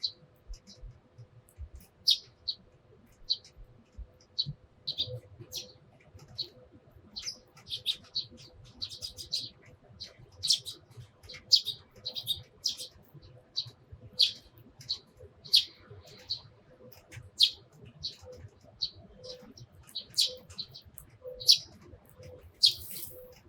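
Eurasian tree sparrows chirping: a busy run of short, sharp chirps, several a second, with no let-up.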